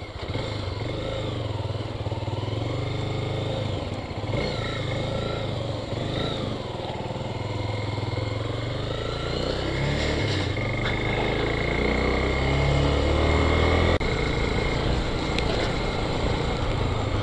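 Motorcycle engine running on the move, its pitch wavering with the throttle, growing somewhat louder about ten seconds in.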